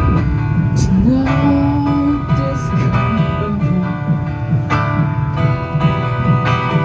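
Live band playing an instrumental intro: strummed guitar over held keyboard chords and bass, with cajon hits keeping a steady beat.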